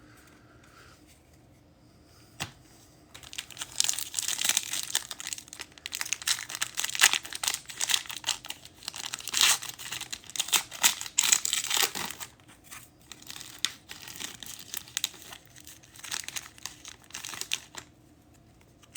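Wrapper of a Spectra football card pack crinkling and tearing as it is opened by hand, busiest from about 3 to 12 seconds in, then lighter rustling as the cards are handled.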